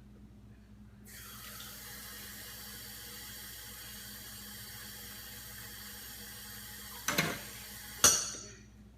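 Water running steadily from a tap, starting about a second in, then two sharp knocks near the end, the second the loudest.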